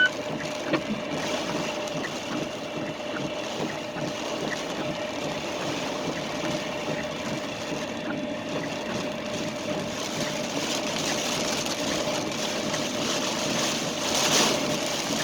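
Strong storm wind buffeting the truck, heard from inside the cab, as a steady rushing noise with a faint steady hum underneath. It swells a little near the end.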